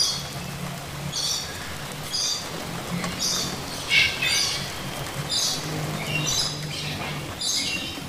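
A bird calling in short, harsh, high notes repeated about once a second, the loudest about four seconds in, over a steady low hum.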